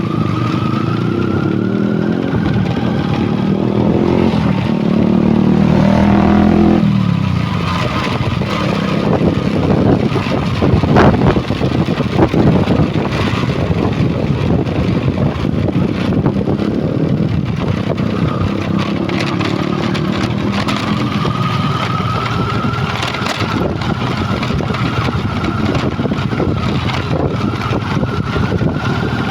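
Truck engine running and revving, climbing in pitch about three to seven seconds in and then dropping back sharply, with a thin high whine that slowly rises in pitch and a few sharp knocks near the middle.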